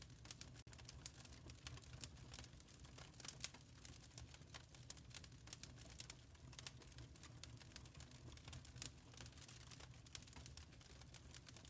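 Faint crackling wood fire in a fireplace: irregular small pops and snaps over a low steady rumble.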